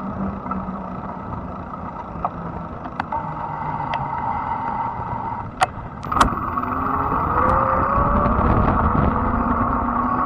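Fat-tire e-bike riding, with wind and tyre noise. A little past halfway, two sharp clicks are followed by a motor whine that rises in pitch as the bike picks up speed.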